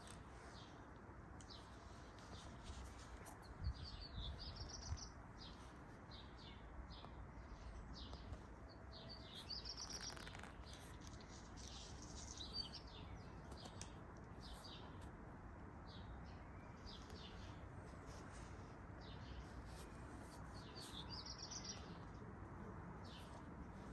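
Faint bird chirps in a few short bursts, over a low steady hiss with light clicks and rustles of handling.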